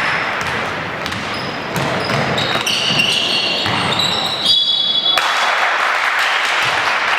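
Basketball game in a gym: the ball bouncing on the court, sneakers squeaking in short bursts of high squeals through the middle, over steady spectator voices that grow louder near the end.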